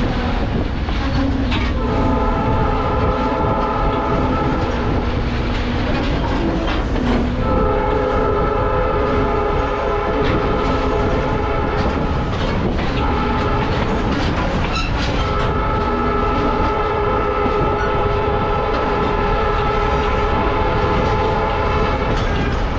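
Diesel locomotive air horn blowing a chord in long, long, short, long blasts, the standard grade-crossing signal. Under it runs the steady rumble and clickety-clack of the train's wheels on the rails.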